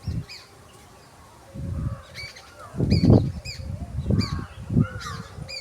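Birds chirping in short, repeated arched notes, with several bursts of low rumbling noise between them, the loudest about three seconds in.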